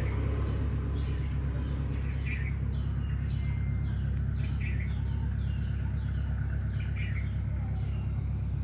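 A bird calling over and over in short falling notes, two or three a second, with a few lower chirps among them, over a steady low rumble.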